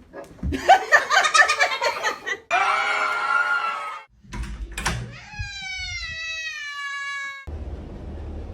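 Laughing in quick pulses, followed by two long high-pitched cries, the second falling slowly in pitch.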